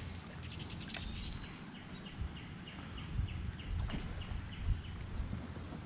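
Bird calls: a rapid, even series of short chirps about four a second with a few high whistled notes over it. A brief low thump comes about four and a half seconds in.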